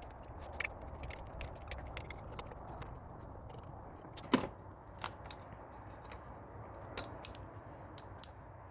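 Scattered metallic clicks and knocks of hand tools and parts being handled while ignition coil packs and spark plugs are refitted on the engine. One sharper knock about four seconds in, with lighter clicks after it.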